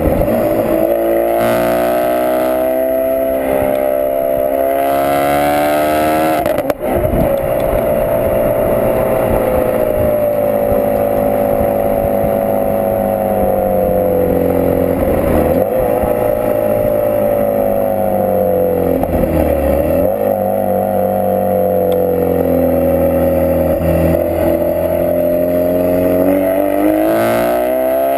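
Ford Focus RS mk3's 2.3-litre turbocharged four-cylinder running loudly through a Milltek Sport non-resonated decat exhaust, its engine speed slowly falling and rising several times. A short click and a brief dip in loudness come about seven seconds in.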